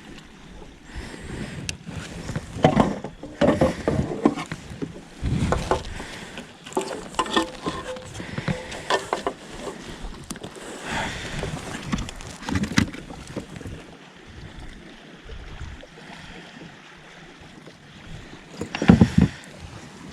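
Irregular knocks and bumps on a kayak, with water sloshing and wind on the microphone; the loudest bump comes near the end.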